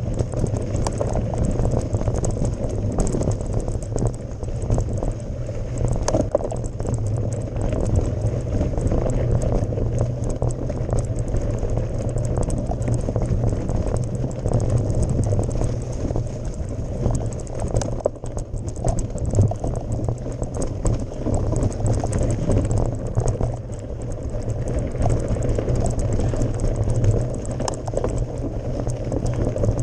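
Mountain bike ridden up a gravel forest road: continuous tyre crunch and rattle, with many small ticks and knocks throughout.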